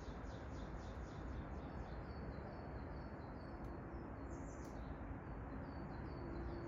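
Small songbirds calling in a quick run of short, high repeated notes, several a second, over a steady low background hiss.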